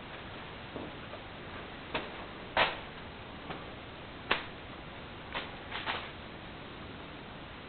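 A handful of short, light knocks and clicks at irregular intervals, the loudest about two and a half seconds in, over a steady background hiss.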